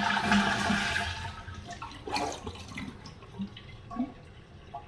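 Toilet flushing with the water supply shut off, so the tank drains without refilling. The rush of water is loudest at first and dies away over about three seconds, with a few faint knocks later on.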